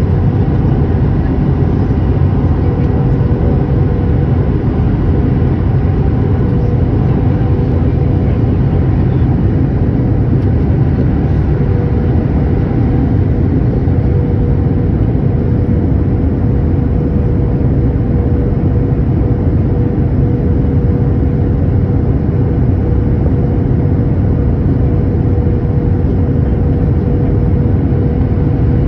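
Steady cabin noise of a jet airliner in flight: a loud, even roar of engines and airflow with a constant mid-pitched hum running through it.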